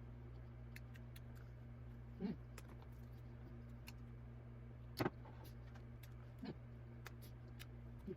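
Eating sounds while chewing a Korean corn dog: four short, soft mouth sounds a second or two apart, the loudest about five seconds in, with a few faint clicks between, over a steady low electrical hum.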